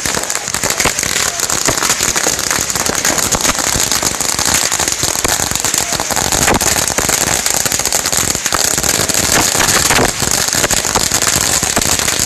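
A roll of firecracker salutes going off, a dense, unbroken string of sharp bangs and crackles.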